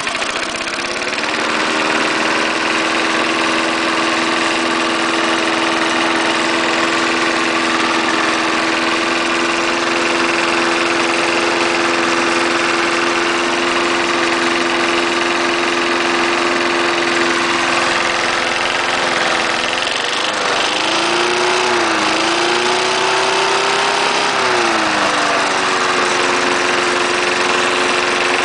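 1974 Snapper lawnmower's 3.5 hp Briggs & Stratton single-cylinder engine running steadily, just started, its speed settling in the first second. About twenty seconds in, the speed dips and wavers for several seconds as the throttle is worked, then it steadies again without stalling.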